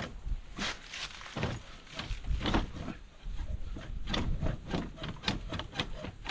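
Irregular knocks and clicks of things being handled, with a quicker run of them in the second half.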